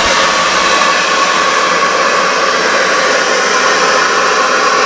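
Brass-melting furnace running under its air blast: a steady, loud rush of air with a faint even tone in it.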